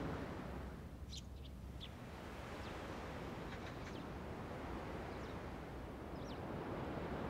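Birds chirping in short, scattered calls, a cluster of them about a second in, over a steady low outdoor background noise.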